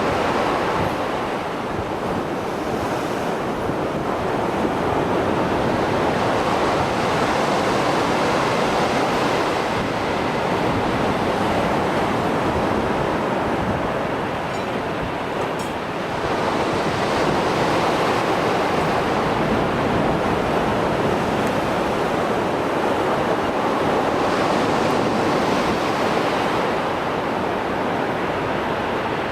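Mediterranean Sea surf breaking and washing ashore in heavy post-storm swell, a continuous rushing wash that swells and eases slowly, with hissing surges of breaking waves near the start, about halfway through and near the end. Some wind on the microphone.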